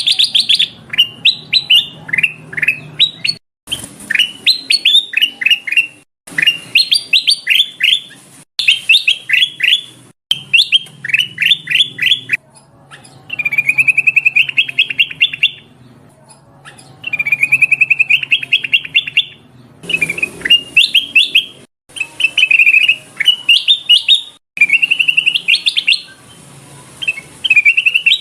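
Kutilang emas bulbul calling in repeated bursts of quick, sweeping chirps, with a few longer, even rapid trills. The calls are broken by several abrupt cuts, and this lure recording is offered as a female calling a male.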